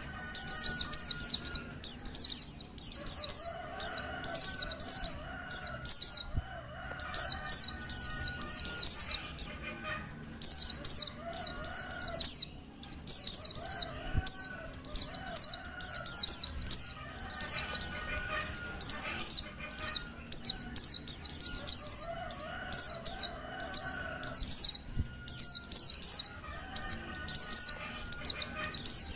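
Female white-eye (pleci) calling: rapid, high-pitched chattering phrases repeated with short breaks, the call of a female in breeding condition that keepers play to make male white-eyes sing. Fainter, lower wavering bird calls sound underneath.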